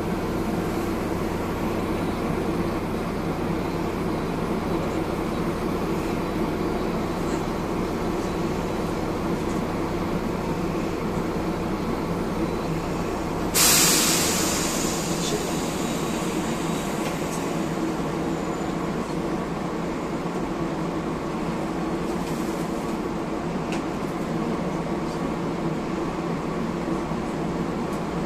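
Steady hum inside a Hiroden 1000-series Green Mover LEX low-floor tram, with no rise or fall in pitch. About halfway through, a sudden loud hiss fades away over a second or two.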